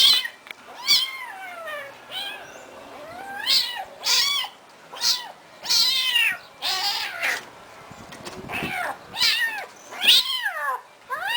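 A cat meowing over and over, about ten high-pitched calls that rise and then fall in pitch.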